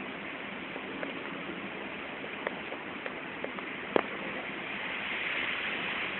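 Storm rain falling steadily, with scattered sharp taps of drops or drips hitting a hard surface, one louder tap about four seconds in. The rain swells slightly near the end.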